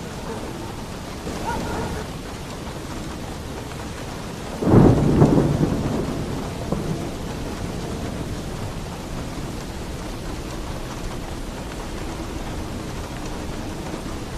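Heavy rain falling steadily on a roof, with a peal of thunder breaking just under five seconds in and rumbling away over the next couple of seconds.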